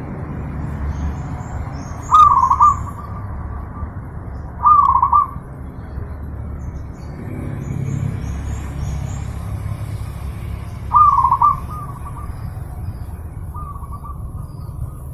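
Zebra dove (perkutut) cooing: three loud, clear coo phrases of about half a second each, spaced several seconds apart, and a fainter one near the end. Faint high chirps from a small bird and a steady low background rumble lie underneath.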